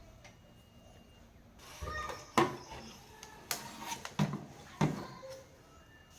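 Handling clatter: a handful of sharp knocks and clicks of hard objects, the loudest about two and a half seconds in, with lighter rattles between.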